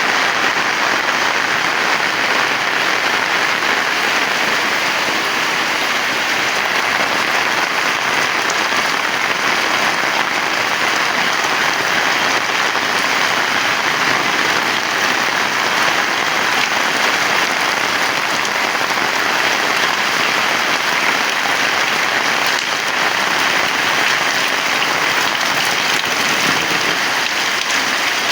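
Heavy rain falling steadily: a dense, even hiss of drops that holds at the same level throughout.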